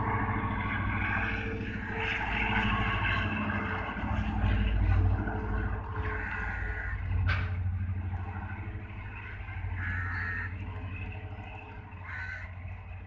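Local passenger train running along the line: a steady low rumble with wheel-on-rail noise, and one sharp knock about seven seconds in.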